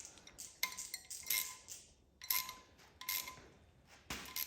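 A series of sharp metallic clinks and clicks, about six spread across a few seconds, each with a brief ring: a wrench and socket working the timing chain cover bolts on a Chevy 350 small-block.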